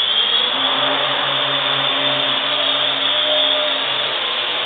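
Parrot AR.Drone's four electric motors and propellers running at hover speed after spin-up: a steady loud whirring buzz with a high whine.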